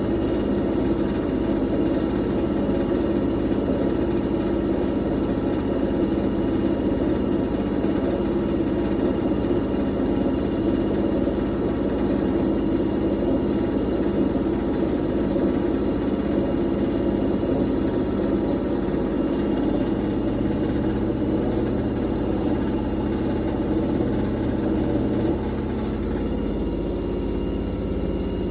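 Fisher & Paykel MW059NZ washing machine running with a steady whir, its drum spinning. The sound drops a little in level near the end.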